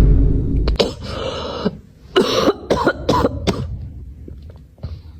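A series of harsh coughs: a long loud one ending about a second in, then several short coughs in quick succession around two to three and a half seconds in.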